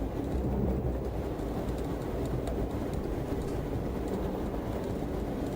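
Steady low rumble of a vehicle driving at highway speed, engine and road noise, with no distinct events.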